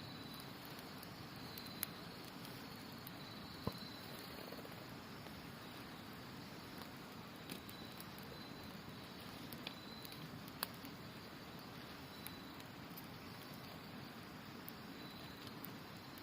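Campfire crackling with scattered sharp pops, the loudest a few seconds in and again about ten seconds in, over the steady rush of a river. Autumn insects call faintly with a thin high trill that comes and goes.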